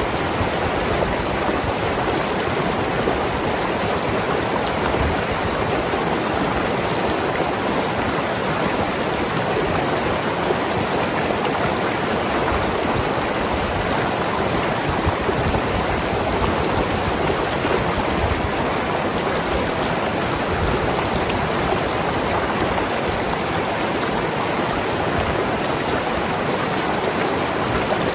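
Mountain river rushing and gurgling over rocks: a steady, even rush of water that holds level throughout.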